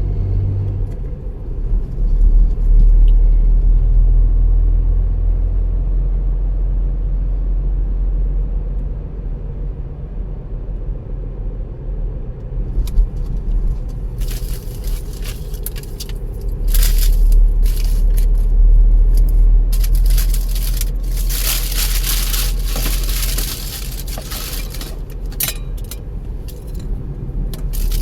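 Car driving on the road, with a steady low rumble of engine and road noise. In the second half, stretches of loud hiss come and go.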